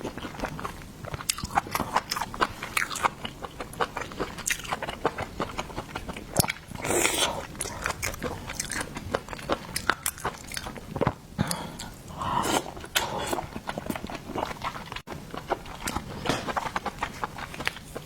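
A person eating close to the microphone: repeated biting and chewing of seafood, with many short clicks and wet mouth sounds.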